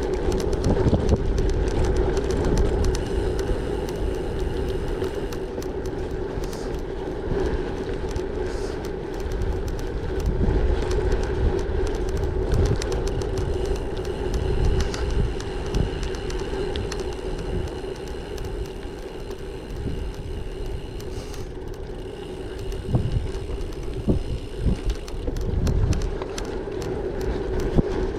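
Gravel bike rolling along at speed: a steady tyre hum, wind buffeting the microphone, and scattered small clicks and rattles from the bike over the surface.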